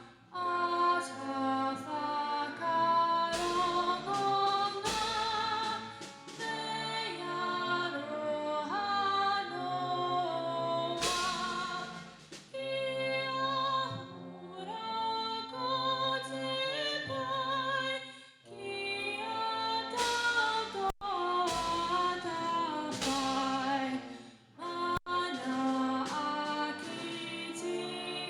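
A female solo voice sings a national anthem with vibrato over a sustained instrumental backing, with occasional cymbal-like swells.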